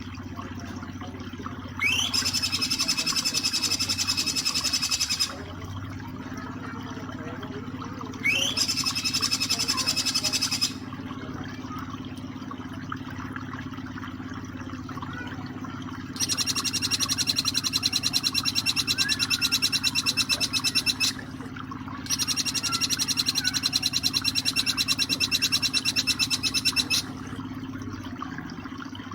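Jingjing petulak bird giving four bouts of very fast, rattling trills, the first two each opening with a quick upward-sweeping note, over a steady background of running water.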